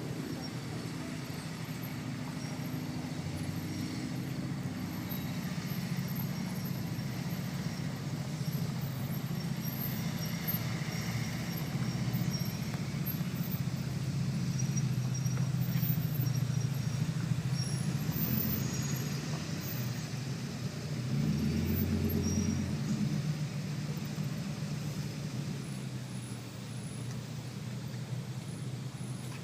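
Vehicle engines running at low speed, a steady low hum that swells about halfway through and again about two-thirds in.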